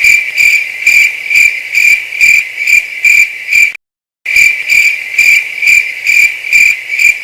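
Crickets chirping, a steady high trill pulsing about twice a second, edited in as a sound effect: it starts and stops abruptly, with a short dead-silent break in the middle.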